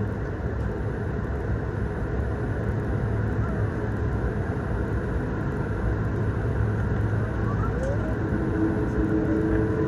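Airbus A220-300 cabin noise while taxiing after landing: a steady low rumble from the engines and airframe. A faint steady hum comes in near the end.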